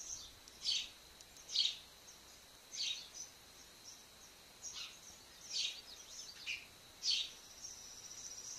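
Birds calling: short high chirps, one roughly every second, over a faint steady high tone, with a thin high trill coming in near the end.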